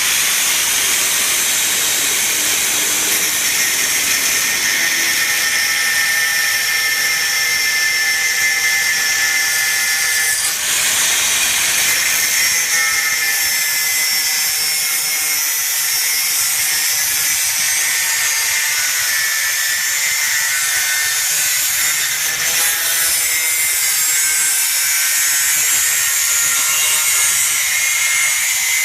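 Doliz BA370 electric angle grinder (720 W, 12,000 rpm) running continuously in use, a steady high whine over a dense hiss.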